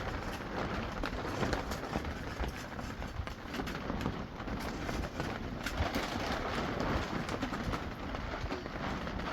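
Steady outdoor noise of rain and wind, with a low, uneven rumble of wind buffeting the microphone.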